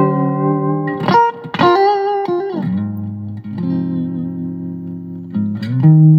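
Electric guitar played through an MXR Micro Amp boost pedal: ringing chords and double-stops in a slow phrase, with a note bent up and released about two seconds in and a held chord with vibrato near the middle.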